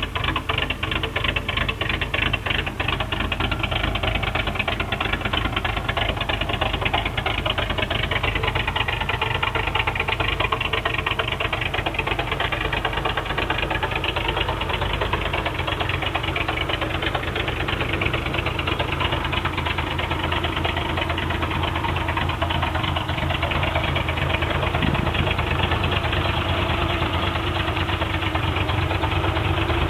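1984 Toyota pickup's 22R four-cylinder engine running at a steady idle, its exhaust rumbling through a Cherry Bomb muffler, with a mild cam fitted.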